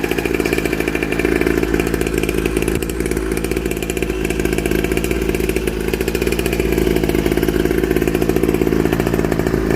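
Small two-stroke engine of a cheap mini dirt bike idling steadily on its first run, with a fast even buzz like a weed eater. It sounds healthy to the owner.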